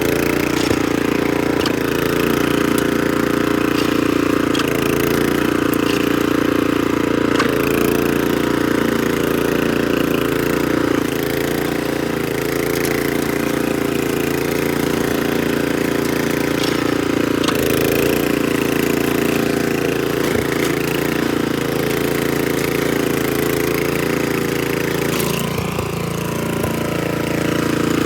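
Troy-Bilt Horse rear-tine rototiller running steadily while tilling, its engine note continuous, with a few sharp clicks scattered through.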